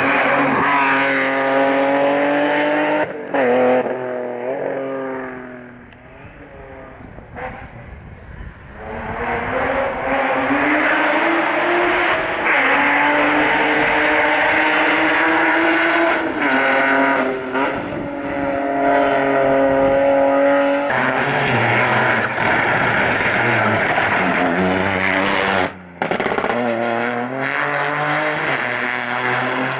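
Rally car engines revving hard through the gears at full throttle, pitch climbing and dropping with each shift. There is a quieter stretch about six seconds in, and a short sudden break near the end.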